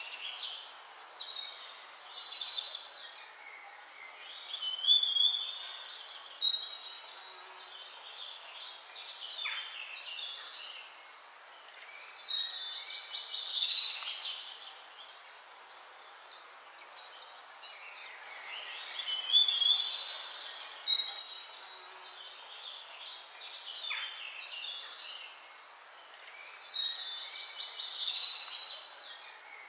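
Songbirds chirping and trilling in high-pitched phrases over a faint steady hiss. The bursts of song come round every six or seven seconds.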